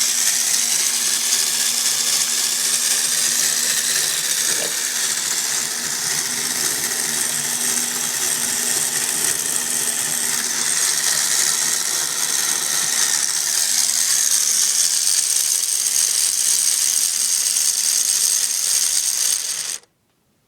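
Lego Technic electric motor running a plastic gear train and chain drive, a steady rattling whir of plastic parts that cuts off suddenly near the end.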